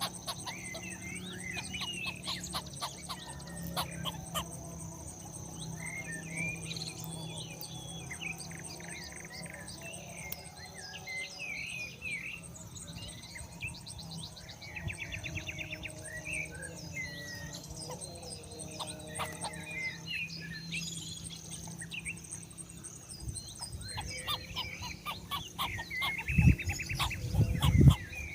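Natural ambience: a steady high insect drone under many short bird chirps and twitters. A few loud low thumps come near the end.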